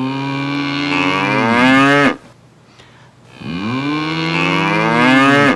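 Cow mooing: two long moos, one after the other with a short pause between.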